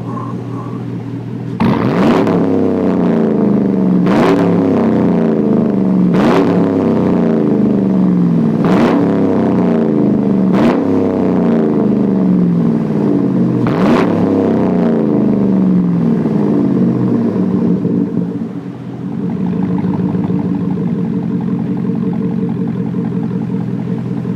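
Pickup truck engine with straight-piped exhaust revved about six times in a row, each rev rising quickly and falling slowly back toward idle, then settling to a steady idle.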